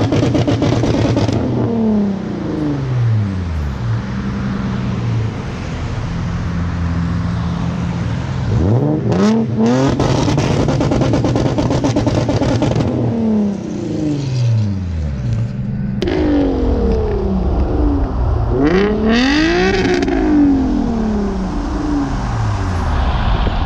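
Car engine running hard on the road, its note sweeping up and dropping back several times as it revs and eases off.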